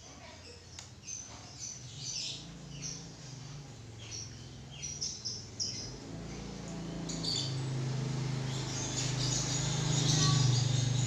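Birds chirping in short scattered calls, with a low steady hum that grows louder in the second half.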